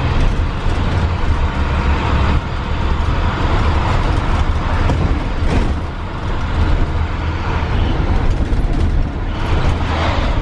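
Steady road and engine rumble of a vehicle on the move, heard from inside a car driving in traffic, with a brief louder swell about five and a half seconds in.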